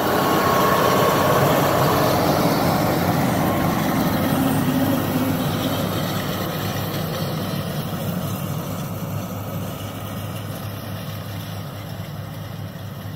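Case IH Magnum 7120 tractor's six-cylinder diesel engine running as it pulls a round baler through hay. The sound is loudest a second or two in, then fades steadily as the tractor moves away.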